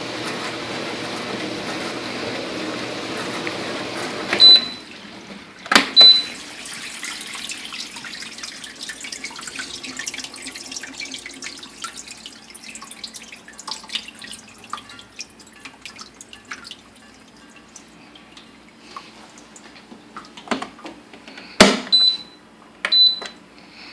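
Brastemp stainless dishwasher spraying water steadily inside its tub, the spray stopping about four and a half seconds in. Short high beeps and sharp clicks follow, with scattered small drips and ticks over a faint steady hum.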